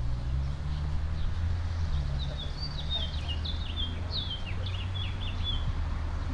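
A songbird singing a quick run of short, falling high notes, starting about two seconds in and stopping shortly before the end, over a steady low rumble.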